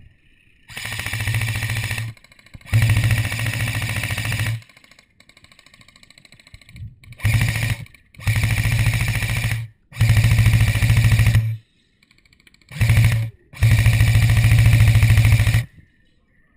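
Electric airsoft gun firing on full auto, the rapid buzzing rattle of its gearbox cycling, in about seven bursts of one to two seconds each with short pauses between them.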